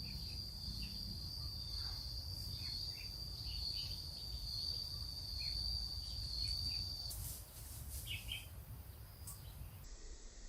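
Insects trilling one steady high-pitched note, with a few short bird chirps and a low background rumble; the trill stops about seven seconds in.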